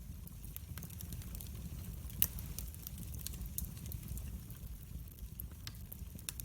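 Wood fire burning in a fireplace: a steady low rumble of flame with scattered crackles and pops, one sharp pop about two seconds in.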